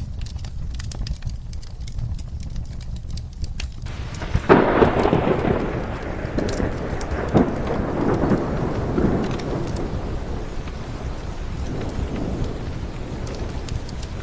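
Rain with a wood fire crackling in sharp pops throughout. About four and a half seconds in, a thunderclap breaks and its rumble fades out over several seconds.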